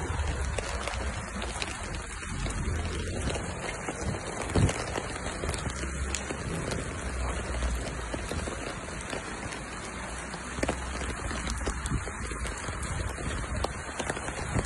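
Steady hiss of rain and water running over a flooded street, with scattered light taps and one louder knock about four and a half seconds in.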